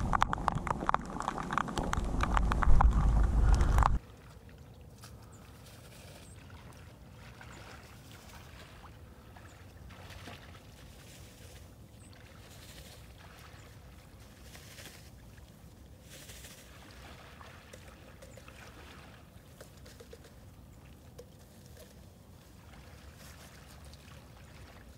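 Loud wind rumble and crackle on the microphone that cuts off abruptly about four seconds in, followed by faint, quiet outdoor sound with soft water sloshing.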